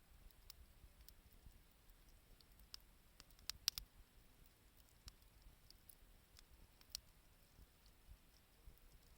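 Wood fire crackling faintly, with sparse, irregular sharp pops and snaps. The loudest come about three and a half seconds in and again near seven seconds.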